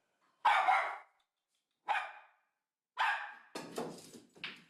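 A dog barking: about five single barks, each starting sharply and fading fast, spaced roughly a second apart.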